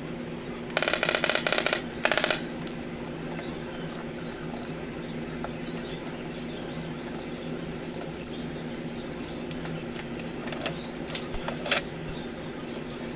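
Steady low machine hum in a body shop, with two short bursts of very rapid rattling, like a pneumatic tool, about a second in, and a few light ticks near the end.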